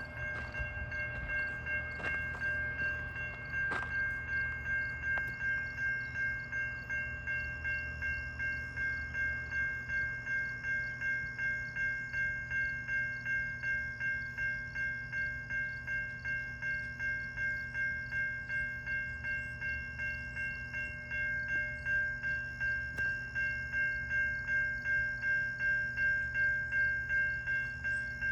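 Level-crossing warning bell ringing steadily at about two strokes a second, over the low rumble of a passing GO Transit commuter train.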